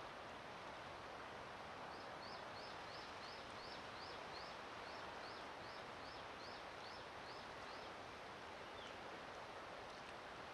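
Steady, quiet rushing noise of wind or surf outdoors, with a small bird singing a run of about fifteen short, high, falling chirps, about three a second, starting about two seconds in and stopping a couple of seconds before the end.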